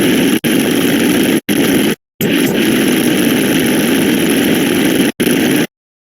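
Loud, dense mash of sound effects with an engine-like hum, cut off abruptly four times by brief gaps and stopping dead near the end.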